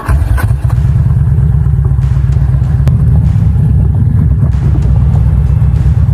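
Large fuel-injected motorcycle engine running hard under load: a loud, deep, even rumble with fast pulsing that cuts in suddenly at the start.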